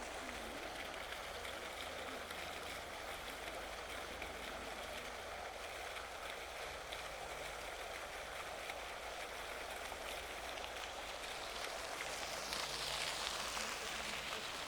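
Outdoor ambience on a walking trail: a steady soft hiss, swelling briefly and getting brighter near the end.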